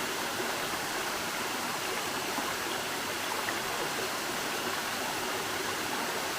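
Waterfall rushing steadily, running high after heavy rain.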